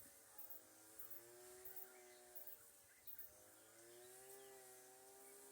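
Faint drone of a distant motor vehicle engine, its pitch slowly rising and falling, with small bird chirps and a high insect buzz behind it.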